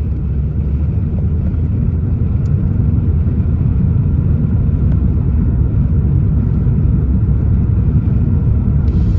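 Steady low rumble of a car driving at road speed: engine and tyre noise.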